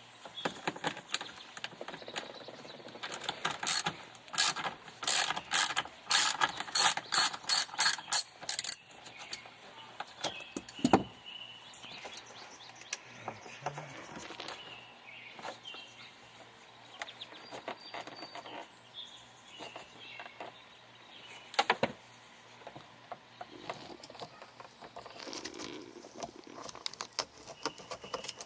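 Hand-tool work on a car's rear HVAC housing: a quick run of ratcheting clicks a few seconds in, then scattered clicks and knocks as parts are worked loose.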